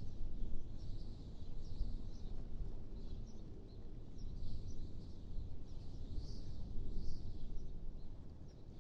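Wind blowing in a low, rushing noise that swells and eases in gusts, with small birds chirping faintly and repeatedly.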